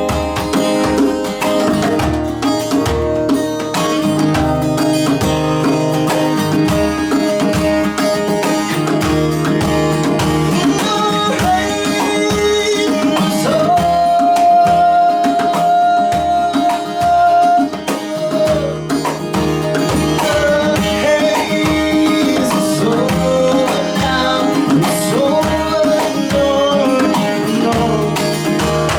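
A band playing a song: plucked guitars over a steady beat, with one long held note about halfway through.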